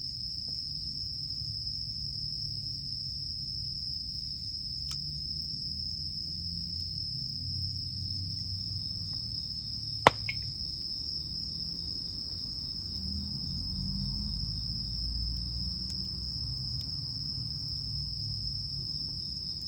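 Insects trilling in one high, unbroken tone over the low, steady sound of a wood campfire, with a few faint crackles and one sharp pop from the burning wood about halfway through.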